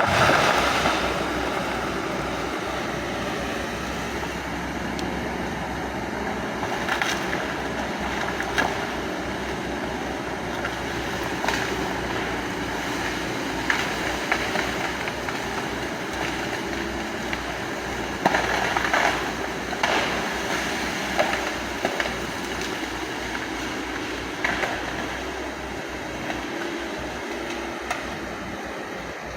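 Hydraulic excavator running steadily while clearing land, with scattered sharp knocks and cracks from the work, the loudest cluster about two-thirds of the way through.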